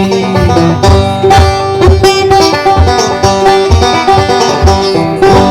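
Live acoustic string music played by a duo: an instrumental passage of plucked and strummed strings with a steady beat, closing out a country-style song.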